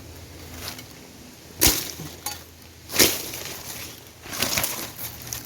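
Two sharp chopping strikes about a second and a half apart, cutting a wild pineapple free from its spiky plant, then a short rustle near the end.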